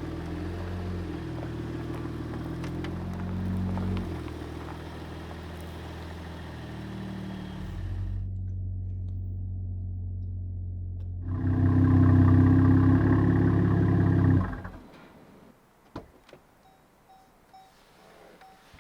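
Pickup truck engine running steadily, muffled for a few seconds in the middle, then louder before it cuts off about fifteen seconds in; a few faint clicks follow.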